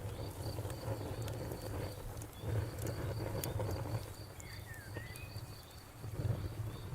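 Campfire burning with a low rumble of flames and scattered sharp crackles and pops, while crickets chirp steadily in a high, even rhythm about three or four times a second.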